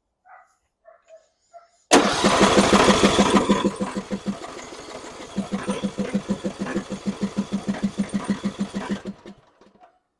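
John Deere E100 riding mower's engine turned over by its starter for about seven seconds, a steady rhythmic chug of about five beats a second that starts suddenly and stops without the engine catching. It is a no-start: it cranks but will not fire, even though fuel is reaching the carburetor.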